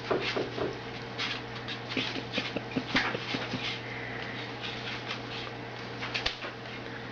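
A dog whimpering, with irregular clicks and scrapes over a steady low hum.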